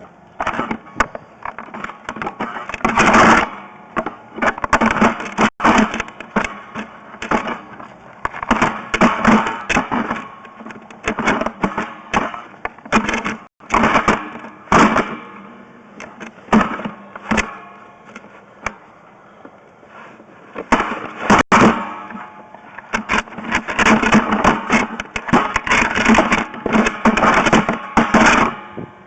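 Plumbing inspection camera being pushed through a pipe: irregular, rapid clattering and scraping knocks, in loud clusters with brief pauses.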